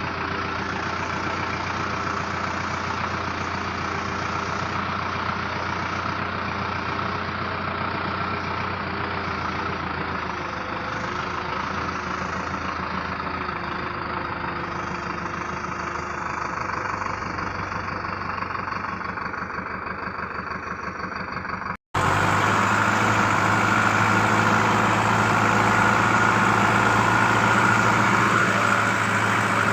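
Sonalika 750 tractor's diesel engine running steadily. About two-thirds of the way through the sound cuts out for an instant and resumes louder.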